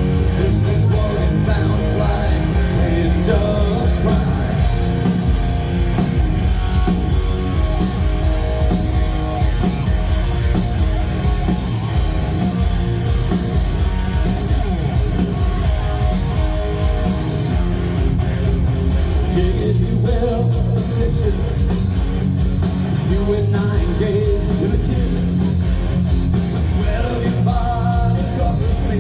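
Live rock band playing loudly, with electric guitar, bass and drums, and some vocals.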